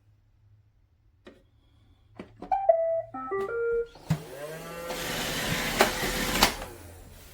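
iRobot Roomba Vac Essential robot vacuum: a few clicks, then a short tune of beeps stepping up and down in pitch, then its motor spinning up with a rising whir that runs about two seconds and cuts off.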